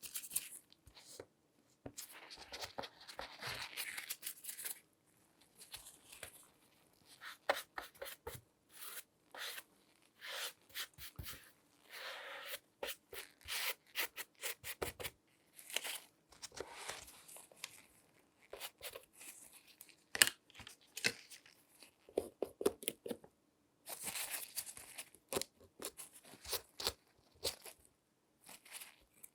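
Latex-gloved hands handling and rubbing a shoe close to the microphone: irregular scratchy rubs and sharp clicks, in short runs with brief pauses between them.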